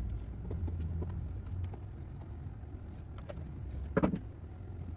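Small clicks and taps of plastic parts and a screwdriver as a Roomba's bottom panel and side brush are screwed back on, over a steady low hum. A brief, louder pitched sound comes about four seconds in.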